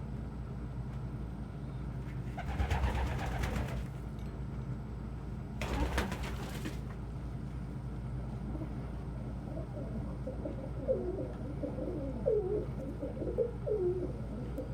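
Domestic pigeons cooing over and over, starting about ten seconds in, above a steady low hum. Two short rustling noises come earlier.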